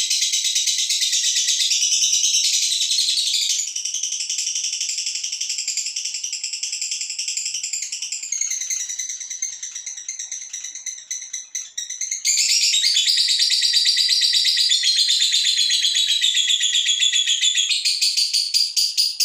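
Female lovebird ngekek: a long, rapid, unbroken high-pitched chattering trill. It drops in loudness about four seconds in, fades further a little before the middle, then comes back loud about twelve seconds in.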